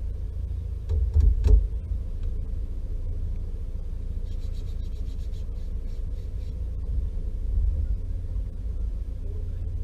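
Toyota 86's flat-four engine idling steadily, a low rumble heard from inside the cabin, with a low swell about 7.5 seconds in. About a second in there is a louder thump.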